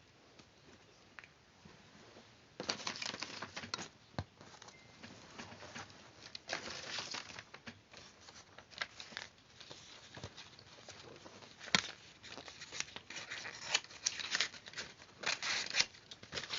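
Paper being handled for a paper-craft model: irregular bursts of rustling and crinkling, with a few sharp clicks, starting about two and a half seconds in.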